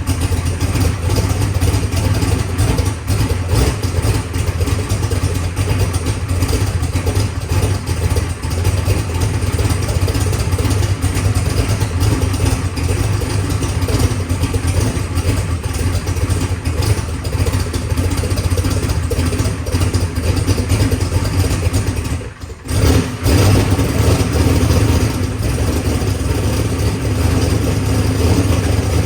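Turbocharged, methanol-fuelled race car engine running in a loud, steady idle on its first start-up, running a little rich. The sound drops out briefly about three quarters of the way through, then picks back up.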